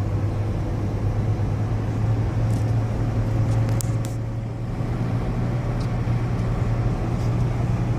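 Car driving along a highway, heard from inside: a steady low engine and road drone with tyre noise.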